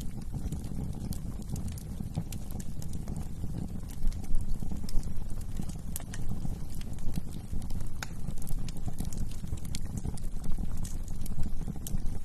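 Wood fire burning in a fireplace: a low steady rumble of flames with many irregular sharp crackles and pops, getting louder and busier about four seconds in.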